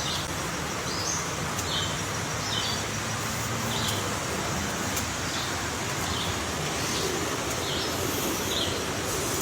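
A bird giving a steady series of short, high call notes, about one a second, over a steady background rumble.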